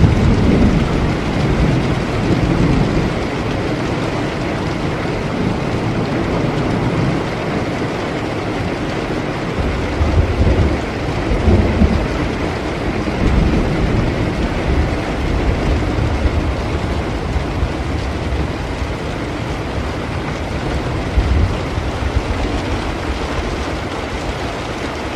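Steady rain with rolling thunder. Low rumbles swell near the start, again around the middle, and briefly later on.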